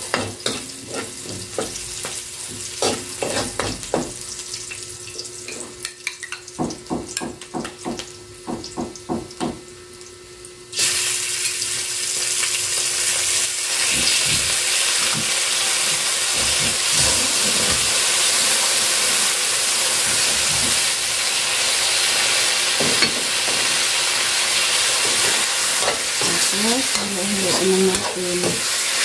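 A metal ladle scrapes and taps against a metal wok as garlic and onion fry in a little oil. About eleven seconds in, a loud, steady sizzle starts suddenly as raw chicken goes into the hot oil, and the ladle keeps scraping through it.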